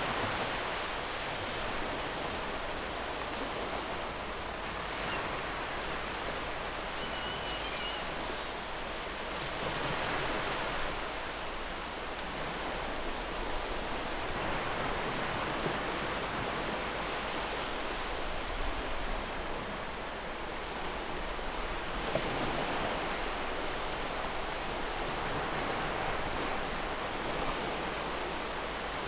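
Ocean surf: waves breaking and washing in, the noise swelling and easing every several seconds.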